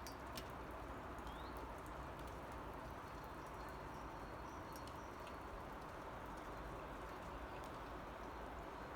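Light rain falling, a steady faint hiss with scattered drips ticking, and a bird calling faintly now and then.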